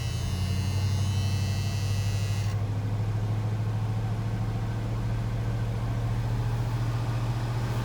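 1977 Ford F-150's V8 idling steadily just after a cold start. A high-pitched whine rides over it and cuts off suddenly about two and a half seconds in.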